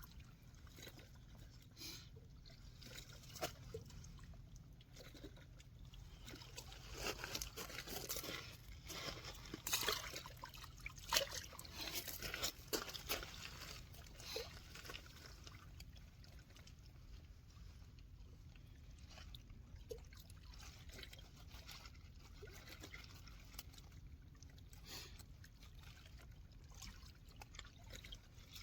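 Water trickling and splashing, with a busier run of splashes through the middle.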